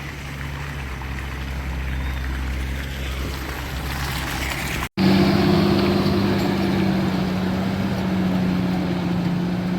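Motor vehicle engines running steadily on the road, with an abrupt cut about halfway through, after which a louder engine drone with a steady hum takes over.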